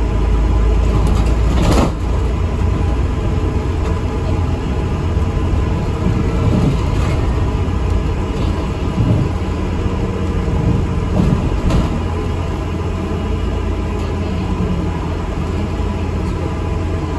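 ADL Enviro 400 MMC double-decker bus on the move, heard from on board: a steady low engine and road rumble, with a short sharp rattle about two seconds in and another near twelve seconds.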